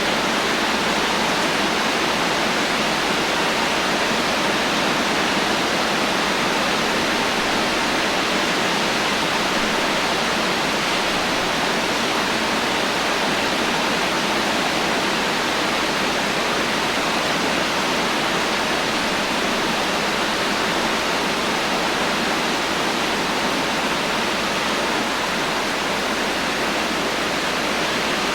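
Heavy rain falling steadily with no thunder: a dense, even hiss with no single drops or other events standing out.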